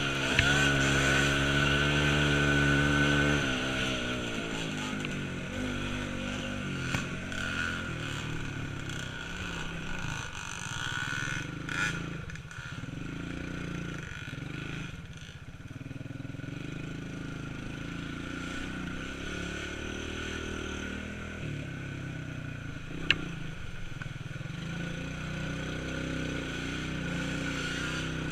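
Small off-road vehicle engine running close and loud for the first few seconds, then moving off and running quieter, its pitch rising and falling as the throttle changes. One sharp click comes about 23 seconds in.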